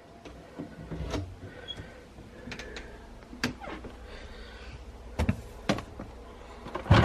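Scattered light knocks and clicks of household objects being handled, then a louder burst of noise just before the end.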